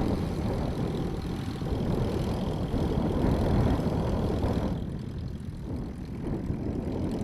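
A 1946 Piper Cub's engine running at low power as the light plane taxis back to the hangar, a steady low drone that eases a little about five seconds in.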